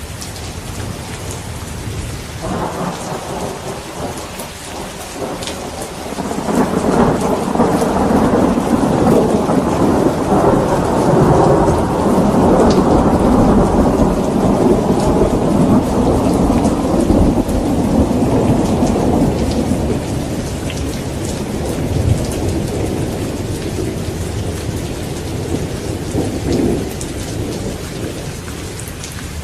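Steady rain falling with a long roll of thunder that builds a few seconds in, rumbles loudest for about ten seconds, then fades away; a smaller rumble follows near the end.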